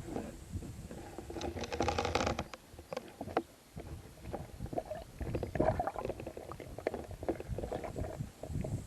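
Muffled underwater sound picked up by a camera in a waterproof housing: a low rumble with irregular clicks and knocks, thickest about two seconds in and again around six seconds.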